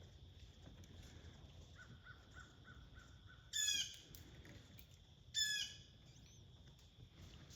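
Two loud, harsh bird calls about two seconds apart, each under half a second. They come over a steady high-pitched drone, with a run of soft, evenly spaced pips just before the first call.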